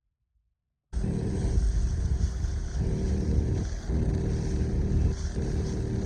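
A motor engine running steadily with a deep rumble, starting abruptly about a second in after near silence.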